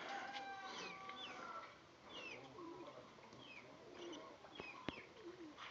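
Small birds chirping: short, downward-sliding chirps repeated every half second or so, with a few soft low calls underneath.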